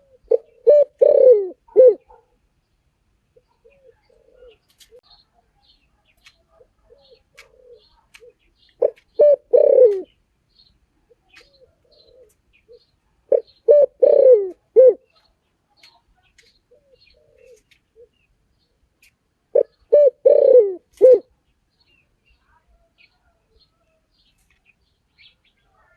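Spotted dove cooing: four loud phrases of a few short coos ending in a longer falling note, repeated about every six seconds, with faint short coos in between.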